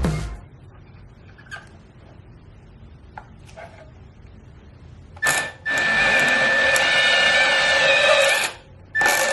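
Milwaukee M12 cordless portable band saw (2429-20) switched on: a short blip of the trigger, then about three seconds of steady running with a constant high whine. It stops for a moment and starts again near the end, after a quiet stretch with a few small clicks.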